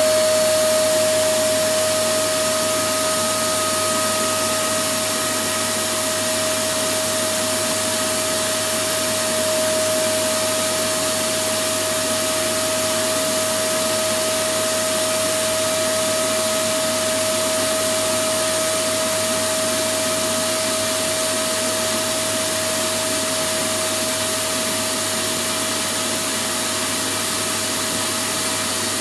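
Electric vacuum cleaner running continuously: an even rushing of air with a steady motor whine.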